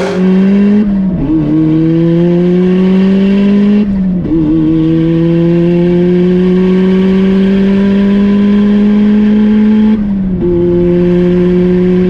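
Turbocharged four-cylinder engine of an offroad Mazda Miata at full throttle down a drag strip, its pitch climbing slowly in each gear and dropping at upshifts about one, four and ten seconds in.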